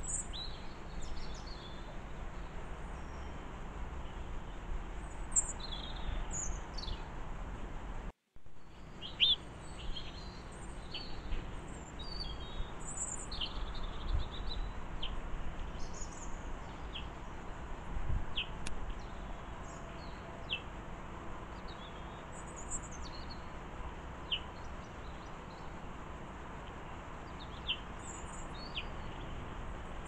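Small garden birds chirping and twittering, with short high calls scattered throughout over a low steady background noise. There are a few short knocks, and the sound drops out for a moment about eight seconds in.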